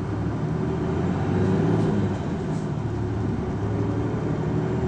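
Isuzu Erga city bus (PKG-LV234L2) driving, its diesel engine running steadily. The engine grows louder about a second or two in, then holds level.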